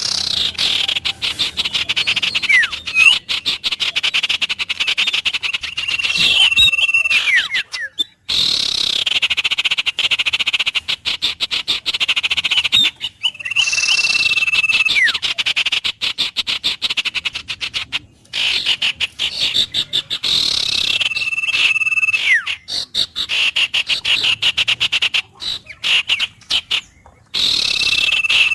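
A dense chorus of calling frogs, a fast pulsing trill that breaks off briefly now and then. Over it a bird gives a held whistled note ending in a falling glide, repeated every seven or eight seconds.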